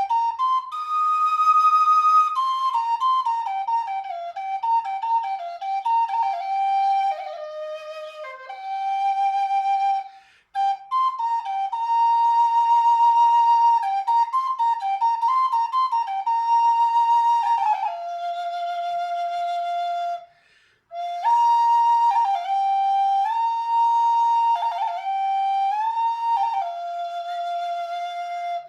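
A solo flute playing a slow melody of held notes and short ornamented runs, one line at a time, with brief breath pauses about ten and twenty seconds in.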